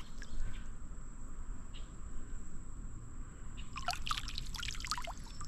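Creek water trickling and dripping. About four seconds in comes a quick run of small splashes and drips.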